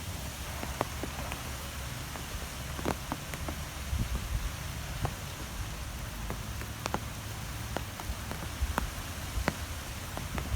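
Nature ambience of wind: a steady hiss over a low rumble, with sharp ticks scattered irregularly through it.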